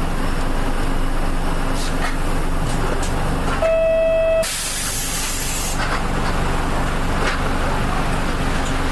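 Inside a KL-UA452MAN city bus: steady running noise of the bus under way. About three and a half seconds in, an electronic beep sounds for under a second. It is cut off by a hiss of compressed air lasting about a second.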